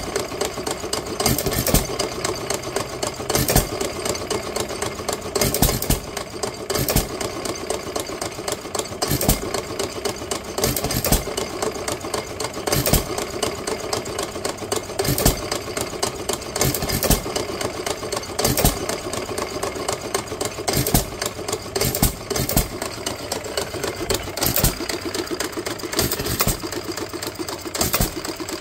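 2 HP Waterloo Boy hit-and-miss gas engine running, with a sharp firing bang every one to two and a half seconds at uneven spacing over a steady mechanical clatter. The uneven gaps are the engine coasting on its flywheels between power strokes, as its governor skips firing.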